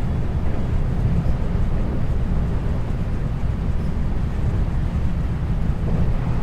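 Running noise inside a 521 series electric multiple unit's motor car at speed: a steady low rumble of wheels on rail.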